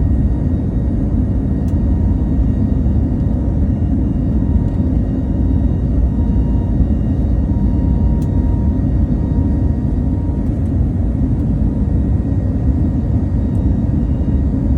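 Airbus A320neo airliner at takeoff power, a steady, loud, even low rumble of engines and airflow with a faint steady whine above it.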